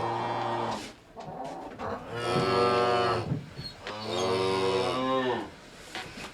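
A cow mooing: one call trails off within the first second, then two long moos follow, about a second apart.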